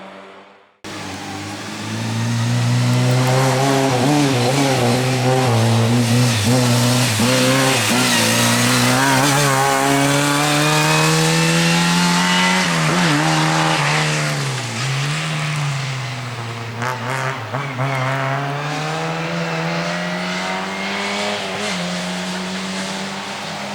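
Lada 2107 rally car's four-cylinder engine driven hard, its pitch climbing for long stretches with two sharp dips about halfway through as the driver shifts or lifts. A few sharp knocks come about two thirds of the way in. The engine starts under a second in.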